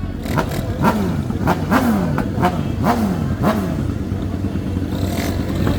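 Motorcycle engine revved in quick throttle blips, about five in a row, each rising sharply and falling back, with sharp cracks among them. The engine runs on at a steady low note after the blips.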